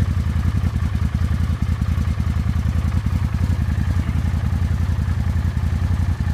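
Suzuki Boulevard C50 805 cc V-twin motorcycle engine idling steadily just after a cold start on choke, with an even low pulsing beat.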